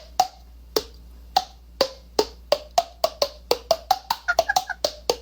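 A man tapping his own neck as a percussion instrument: a rhythmic series of hollow, pitched knocks whose pitch changes from stroke to stroke, picking up speed into quicker runs near the end.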